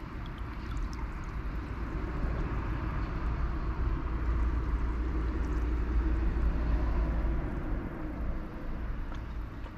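Small waves washing on the shore of a calm sea, with wind rumbling on the microphone. The wash swells about halfway through and eases off near the end.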